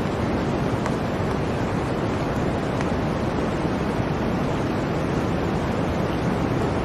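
Blizzard ambience: a steady rush of wind-driven noise with a deep low rumble, and a couple of faint ticks.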